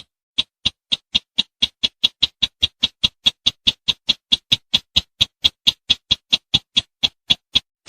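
Call of the sintar semak (bush sintar) bird: a long, even run of short, sharp high notes, about four a second, ending shortly before the end.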